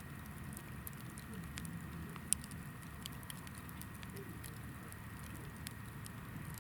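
Hinoki firewood burning in a campfire: a steady low rumble of the flames with scattered small crackles and one sharp pop a little past two seconds in.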